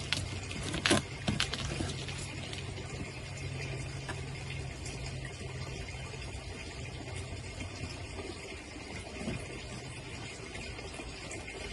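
Steady hiss with a low hum underneath, and a few sharp clicks about a second in, like small objects being handled.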